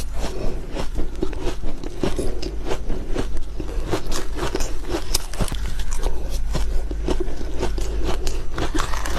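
Close-miked ice eating: a stream of irregular crisp crunches and crackles as frozen ice is bitten and chewed, over a steady low hum.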